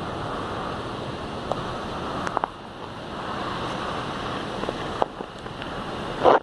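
Storm rain and wind: a steady rushing hiss with scattered sharp taps of drops, and a louder burst near the end.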